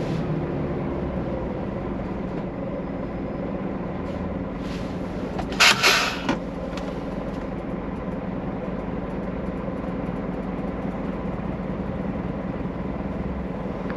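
Scania truck's diesel engine running steadily with a low drone, and a short loud hiss of air about six seconds in.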